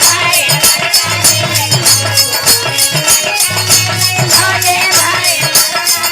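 Instrumental passage of live folk music: jingling percussion keeping a steady, even beat over a low, steady bass.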